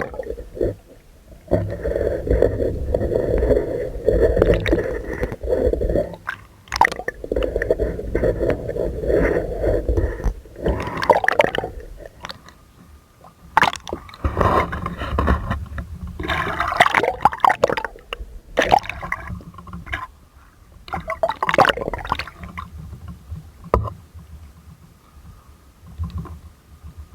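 Water sloshing and gurgling in irregular bursts, heavy and continuous for the first several seconds, then broken into short splashes and sputters.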